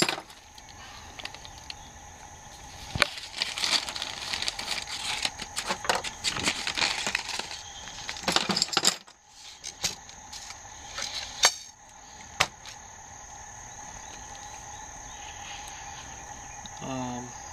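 Close handling noises: rustling, crinkling and many sharp clicks, busiest in the first half and fewer after about nine seconds. A steady high insect trill runs underneath throughout.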